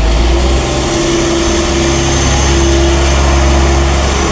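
A heavy truck's engine running steadily, with a constant low rumble and a steady hum over it.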